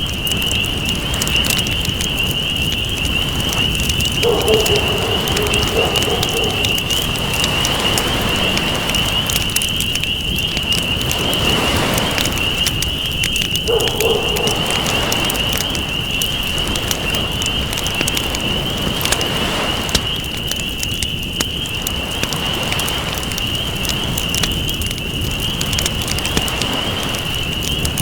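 Campfire crackling over a steady wash of ocean waves, with a continuous high-pitched drone held at one pitch throughout. A low call sounds twice, about four seconds in and again near the middle.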